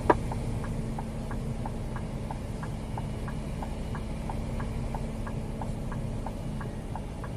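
Scania G410 lorry's diesel engine running steadily at low revs, heard from the cab, with a light regular ticking about three times a second over it.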